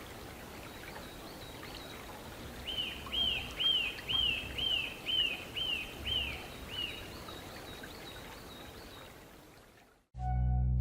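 Eurasian nuthatch singing a run of about eight clear, arched whistles, roughly two a second, over a steady outdoor hiss. Guitar music starts right at the end.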